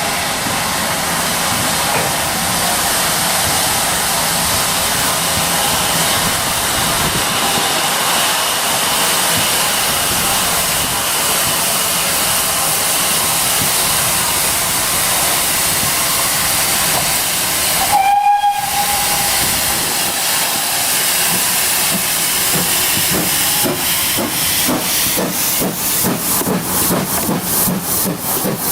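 GWR 5600 class 0-6-2 tank engine 6695 hissing steam steadily. About two-thirds through, it gives one short whistle blast. Near the end it starts away, its exhaust beats quickening as it gathers speed.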